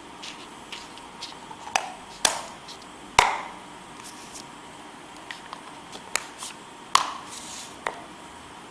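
Scattered light taps and clicks of hands working modelling clay and small items against a hard work surface, about a dozen in all, the sharpest a little over three seconds in.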